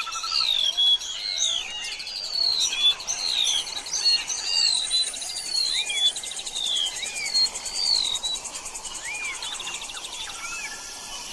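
Several birds chirping and whistling in quick, overlapping short calls, thinning to single arched chirps in the second half, over a steady high insect trill.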